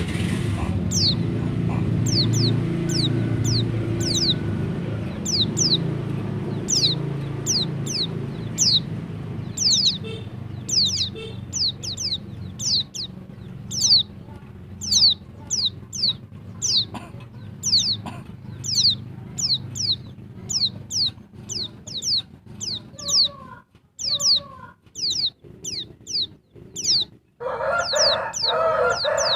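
Female white-eye (pleci dakbal) calling: a rapid run of short, high, thin notes, each sliding downward, about two a second throughout. A low background rumble fades out about two-thirds of the way through, and a lower-pitched call from another bird comes in near the end.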